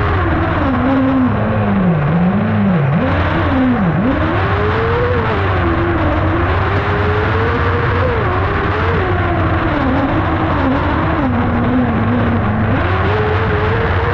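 Kart cross car's motorcycle engine heard from onboard while racing, revving up and down with the throttle. There are three quick drops in revs in the first four seconds, then it holds higher revs with small swings, dips again near the end and climbs back. A steady rushing noise runs underneath.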